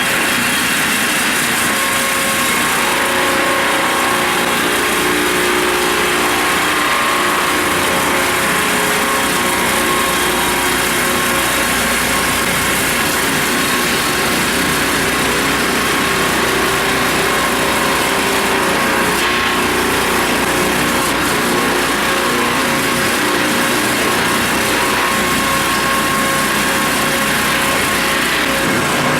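Multi-saw circular sawmill (two-shaft log cant-making machine with 630 mm circular saws) running: a loud, steady, even mechanical noise with a faint steady whine from the spinning saws.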